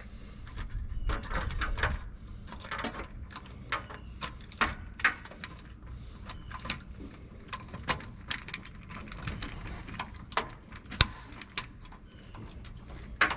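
Irregular sharp metallic clicks and clinks of hand tools working the safety wire on an aircraft engine's oil filter, with the loudest click about eleven seconds in.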